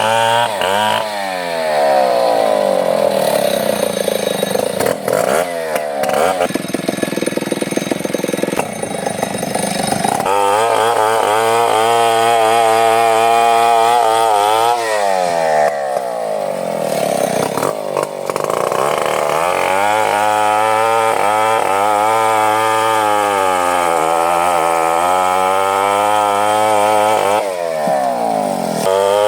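Two-stroke chainsaw running hard while cutting wood, its engine pitch sinking and climbing back again and again as the chain loads up and frees.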